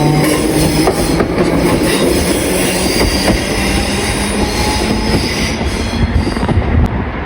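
A train running on the rails: a steady loud rumble with a few sharp clicks of the wheels over rail joints.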